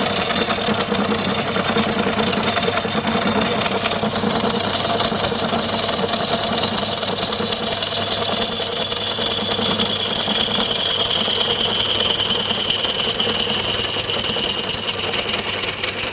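Wood lathe running with a turning tool cutting the spinning wood: a loud, steady machine noise over a low hum, with a high ringing tone that drifts slightly lower in pitch over the second half.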